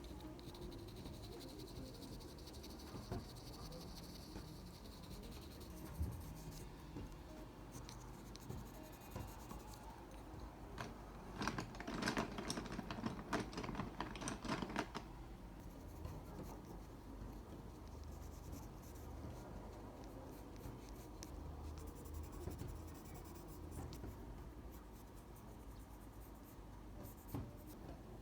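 Drawing strokes scratching on paper, soft and intermittent. A louder run of quick back-and-forth strokes comes about halfway through.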